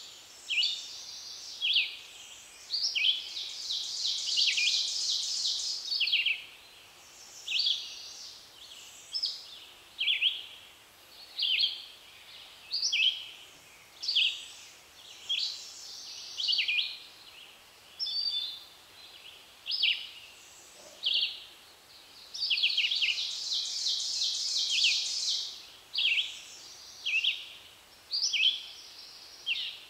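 Songbirds singing in spring woodland: short, high chirping phrases repeat every second or two, and longer, fuller songs come about three seconds in and again about twenty-three seconds in.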